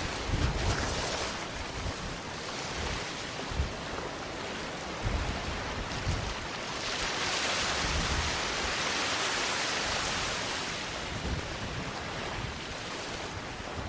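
Small sea waves washing onto a sandy beach, a steady hiss of surf that swells into a broader wash about halfway through and eases off again, with low rumbles of wind on the microphone.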